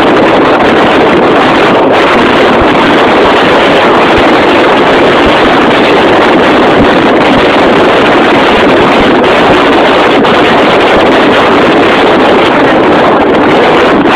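Loud, steady rushing of wind on the microphone aboard a moving tour boat, with the boat's motor and water noise under it.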